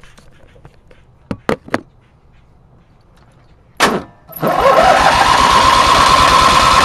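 A few key clicks, then a small gasoline engine is cranked on its electric starter: a short burst, then about four and a half seconds in it spins up with a rising pitch into a loud, steady run, choke partly open. Its owner takes its trouble staying running for carburetor issues.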